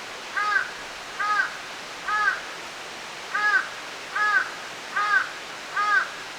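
A crow cawing seven times, three caws then a short pause and four more, each call brief and arched in pitch, over the steady rush of a stream.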